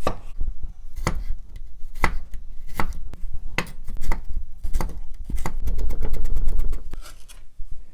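Kitchen knife cutting ginger on a cutting board: single cuts roughly a second apart, then a quick run of rapid chopping strokes late on.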